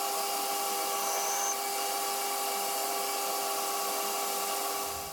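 AL960B metal lathe running steadily with a constant motor and gear whine while turning down a 4140 steel bar. It winds down near the end.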